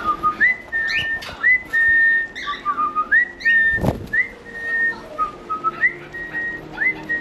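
Cockatiel whistling a repeated tune of upswept notes that level off into held high whistles, with a few lower notes and short chirps between them. A single sharp knock comes about four seconds in.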